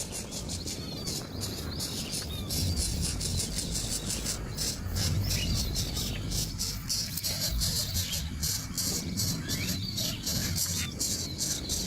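Outdoor nature sound: insects trilling in fast high pulses, with short bird chirps over them and a low rumble underneath.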